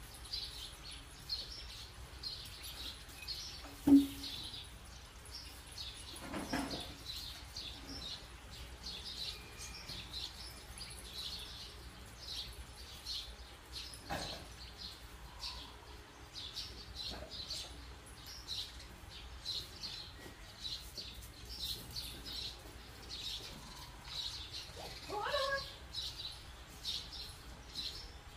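Small birds chirping over and over, about two short high chirps a second. A single sharp knock about four seconds in, and a brief rising whine near the end.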